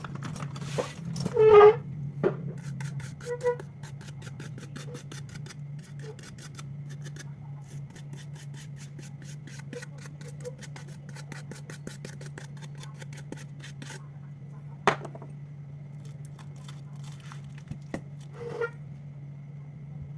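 Small tools and phone parts clicking, tapping and scraping on a repair bench during a phone teardown, over a steady low hum. A quick run of light, even clicks lasts about ten seconds, and a few sharper clinks stand out, the loudest near the start.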